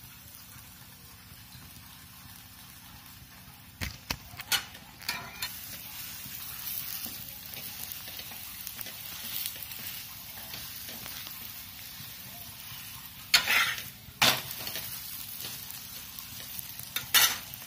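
Aloo paratha sizzling steadily in oil on a tawa. A metal spatula scrapes and knocks against the griddle in short loud strokes about four to five seconds in, twice around thirteen to fourteen seconds, and again near the end.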